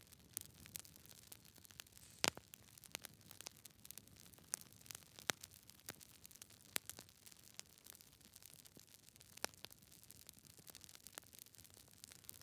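Wood fire burning in a fireplace: soft hiss with irregular sharp crackles and pops from the logs, the loudest pop a little over two seconds in.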